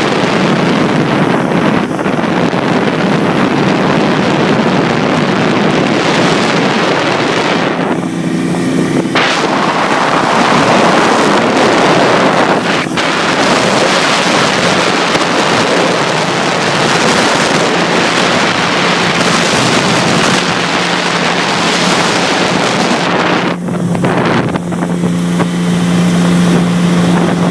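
Motorboat engine running at speed, with heavy wind noise on the microphone. The engine's steady hum stands out when the wind drops, briefly about eight seconds in and again near the end.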